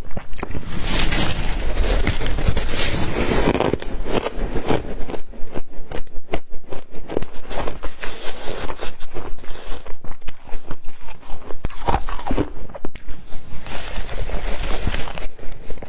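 White ice being bitten and chewed close to the microphone: loud, crisp crunching that settles after about five seconds into a quick, even run of crunches.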